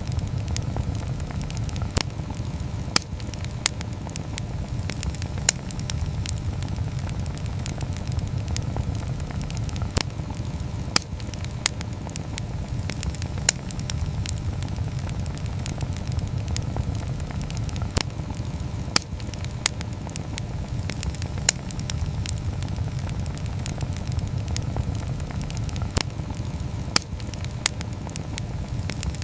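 Campfire crackling, with sharp pops every second or so, a few louder than the rest, over a steady low rumble.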